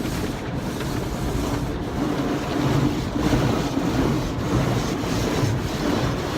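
Automatic car wash running, heard from inside the car: a steady rush of water spray and machinery with a low rumble, growing a little louder about two seconds in.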